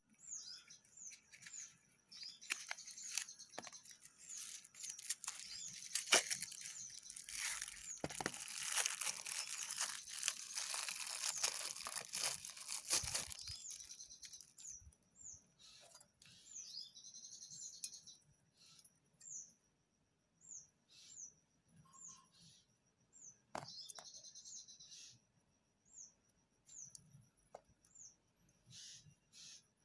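Knife slicing and scraping through a bar of Medimix soap: a long stretch of crisp, gritty scraping with small clicks, then two shorter cuts later on. A bird chirps repeatedly in the background, about once a second.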